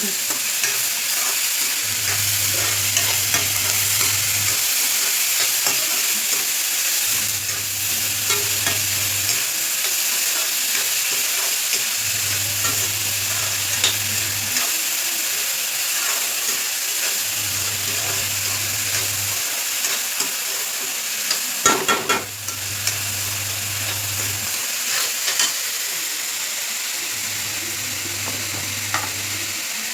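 Onions, chillies and curry leaves sizzling steadily in hot oil as they are stirred and sautéed in a pan, with a short clatter of the stirring spoon against the pan about two-thirds of the way through. A low hum comes and goes about every five seconds underneath.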